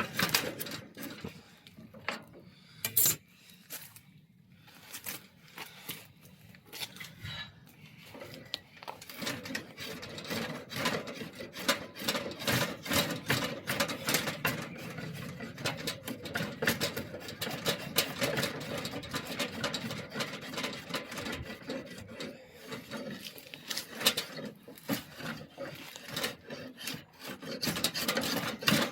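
Hand tool rasping and scraping wood off an oak bow limb to taper it. The strokes are scattered at first, then come quick and steady from about a third of the way in.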